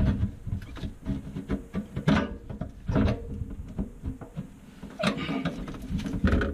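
Irregular knocks, clunks and scrapes as a garbage disposal unit and its parts are handled and moved under a sink.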